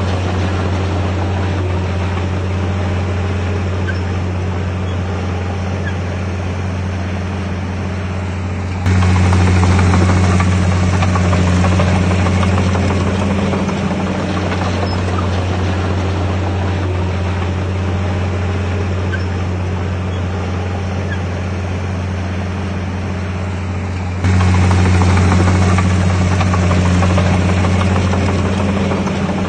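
A Komatsu D51PX bulldozer's diesel engine runs steadily with a deep, even hum. It gets abruptly louder about nine seconds in and again about twenty-four seconds in.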